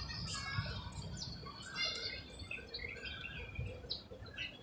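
Small birds chirping: many short, high calls scattered through, over a faint low rumble.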